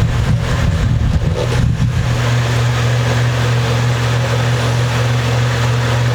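Steady low hum with a hiss behind it, from a machine or electrical source running throughout; light irregular knocking and handling noise in the first two seconds.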